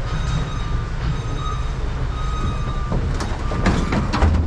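Heavy yard machinery's engine running with a steady low rumble, and an on-off high beeping tone. A few sharp metal clanks come about three to four seconds in.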